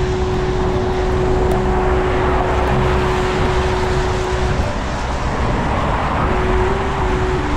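Steady city traffic noise on wet streets in the rain, heard from a moving bicycle, with a held tone that shifts pitch a few times in the second half.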